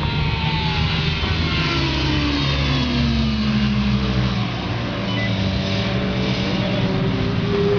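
Racing motorcycle engines running at high revs on a circuit. One engine's pitch slides down about two seconds in, and others rise and fall again near the end, as bikes pass and shift.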